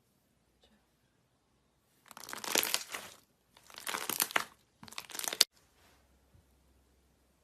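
Slime being squeezed and pressed by hand, giving crinkly, crackling pops in three bursts, the last of them the shortest.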